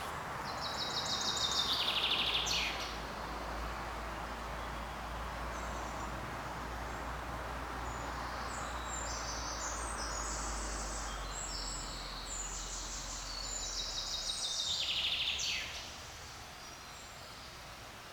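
Songbird singing two phrases over a steady forest background hiss: a quick run of notes falling in pitch about half a second in, then a longer, busier phrase from about halfway that ends in another falling run.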